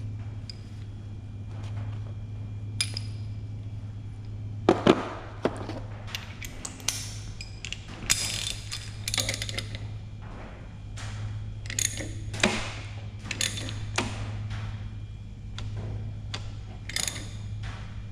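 Ratchet wrench clicking in irregular runs with metal tool clanks, as hand tools are worked against a very tight crankshaft harmonic balancer on a Ford Coyote V8. A steady low hum runs underneath.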